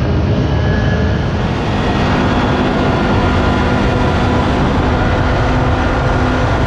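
Side-by-side UTV driving at a steady pace: a constant engine drone with the rumble of the ride.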